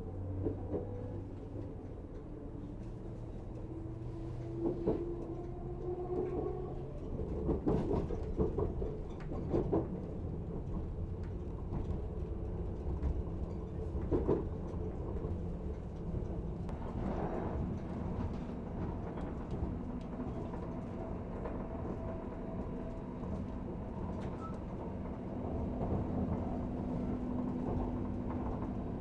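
Regional passenger train running between stations, heard from inside the carriage: a steady low rumble with humming tones from the drive. Several sharp knocks from the wheels and track come about eight to ten seconds in, and again around fourteen and seventeen seconds.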